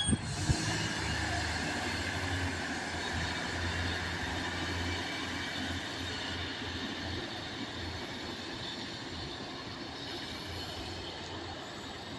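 A passenger train moving on the track past the microphone: a steady low hum and rushing noise that slowly fades as it draws away.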